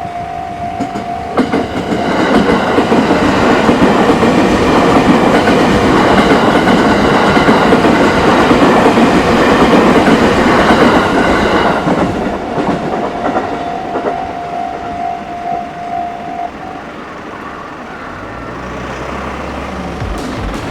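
A level-crossing warning bell rings steadily as a train passes loudly through the crossing for about ten seconds. The bell is heard again as the train fades, then stops about three-quarters of the way through.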